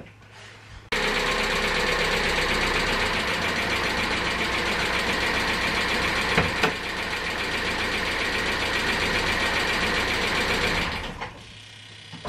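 The Polonez's Rover-built 16-valve four-cylinder engine running steadily as it warms up to operating temperature, starting suddenly about a second in and fading out near the end, with one sharp click in the middle.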